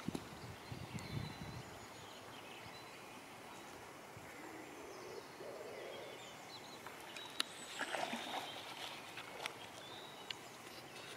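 Faint outdoor ambience with small birds chirping here and there over a steady background hiss. There are a few low thumps right at the start and a brief busier patch of sound about eight seconds in.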